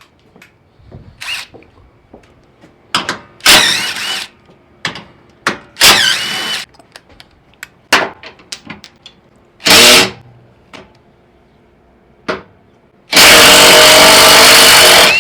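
Impact wrench run in loud bursts: three short ones, then a longer run of about two seconds near the end, with small clicks of tool handling between them.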